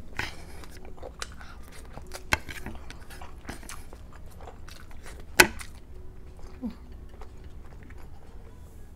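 Close-miked eating of garlic butter shrimp and crab: chewing and biting with scattered sharp clicks and crunches, the loudest click about five and a half seconds in.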